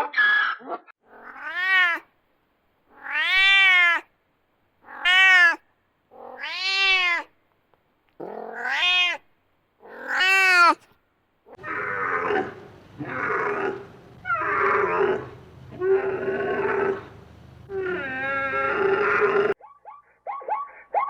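Domestic cat meowing: six separate meows, each rising and then falling in pitch, with short silences between. About halfway through, a second recording of a cat meowing again and again over a steady background hiss.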